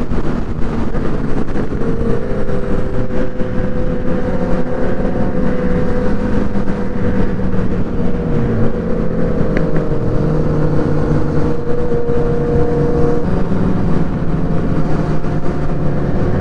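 Stock-exhaust 2014 Yamaha FZ-09 inline three-cylinder engine running at a steady cruise, with wind rushing over the microphone. The engine note dips briefly twice around the middle, then settles again.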